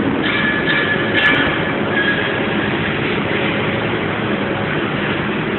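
MIG (gas metal arc) welding arc crackling steadily while laying a plug weld on a steel truss.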